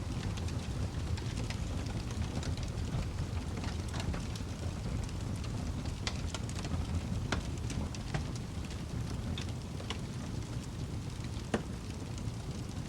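Wood fire crackling in a fireplace: a steady low rumble of flames with scattered sharp pops and crackles, the loudest pop near the end.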